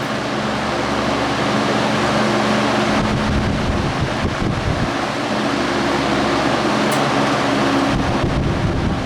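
Vintage 1967 Lasko 20-inch box fan with a Westinghouse motor and aluminium blades running while it oscillates: a steady rush of air over a low motor hum. The low rumble of air hitting the microphone comes and goes every few seconds as the fan sweeps past.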